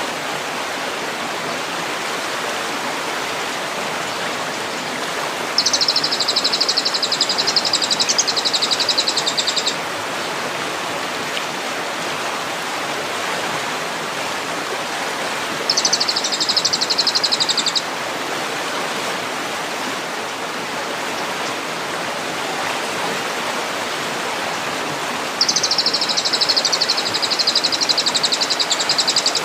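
A small songbird gives three bursts of rapid, buzzy, high-pitched trills, each two to four seconds long, over a steady rush of running water. The trills come about a fifth of the way in, around the middle, and from near the end onward. This is masteran audio used to tutor captive songbirds.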